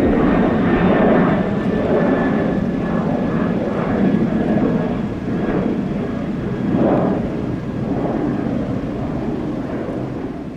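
Jet airliner climbing out after takeoff: a loud, steady engine rush with a faint high whine, slowly fading toward the end as it moves away.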